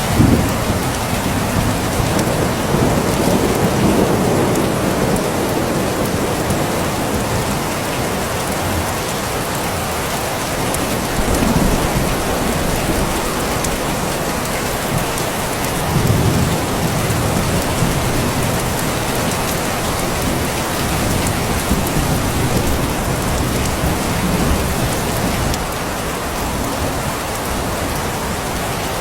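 Steady heavy rain falling, with low rolls of distant thunder swelling up a few times: near the start, at about eleven seconds and again at about sixteen seconds.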